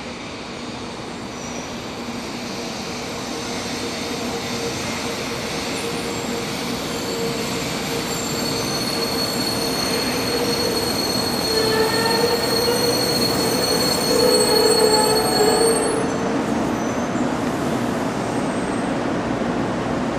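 Shinkansen train pulling into the platform, its running noise growing louder with steady high-pitched squealing as it brakes. The squeal and the loudest noise cut off about sixteen seconds in.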